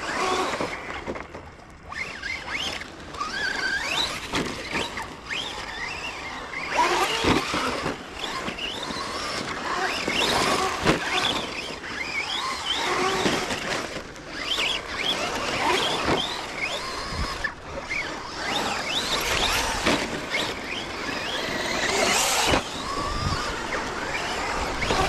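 Electric motors of Traxxas radio-controlled trucks whining as they are driven hard, the pitch sweeping up and down over and over with each burst of throttle.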